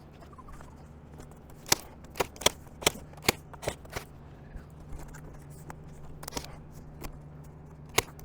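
Staple gun driving staples through a cardboard target backer into a wooden frame: about six sharp clacks in quick succession, a little over two a second, followed by fainter clicks of handling. A steady low hum runs underneath.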